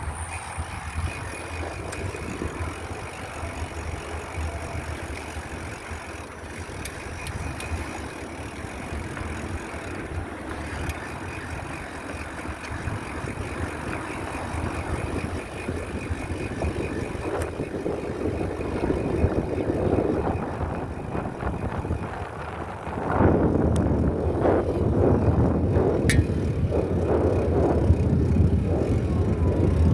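Riding noise from a bicycle on the move: a steady rumble of tyre and road noise with wind on the microphone, growing louder and gustier about two-thirds of the way through.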